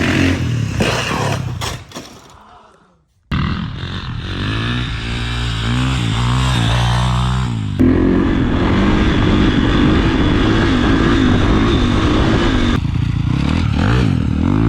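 Kawasaki KX450F dirt bike's single-cylinder four-stroke engine revving up and down, in several short pieces cut together. It fades out about three seconds in, then comes back abruptly.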